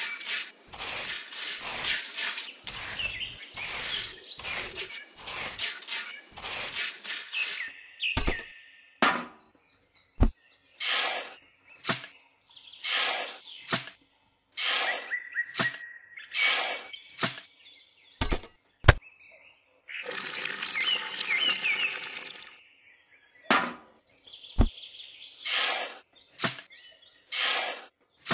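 A small trowel scraping and stirring cement and water into a wet mix on a wooden surface, in quick strokes about two a second for the first eight seconds, then in separate scoops, with a few sharp clicks. Birds chirp faintly behind it.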